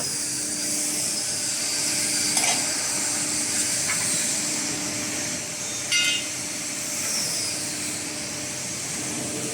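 Steady hiss and low hum of idling workshop machinery, with a few light clicks about two and a half and six seconds in.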